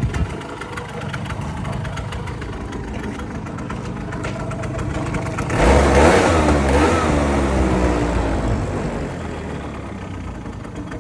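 KYMCO Sooner 100 scooter engine idling, given a throttle blip about five and a half seconds in, then dropping back down to idle over the next few seconds. A short knock sounds right at the start.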